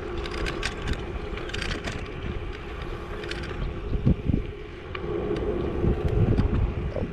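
E-bike under way: a steady motor hum with wind buffeting the microphone and tyre rumble, with a few light rattles and clicks.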